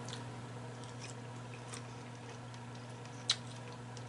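Faint chewing: soft wet mouth clicks and smacks from someone eating, with one sharper click about three seconds in, over a steady low hum.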